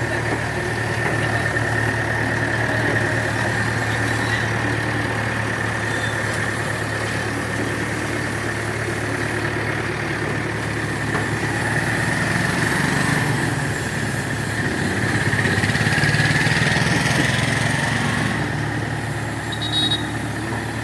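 Heavy diesel machine engine running steadily at idle, with a steady high whine over the engine note.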